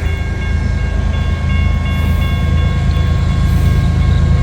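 Approaching freight train's diesel locomotives: a heavy low rumble that grows slightly louder, with steady high ringing tones above it.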